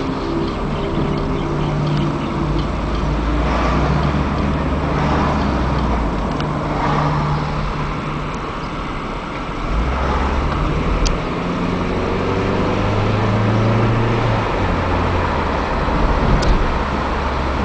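Car driving in traffic, heard from inside the cabin: steady engine hum and road noise, with the engine's pitch shifting up and down several times as it speeds up and slows.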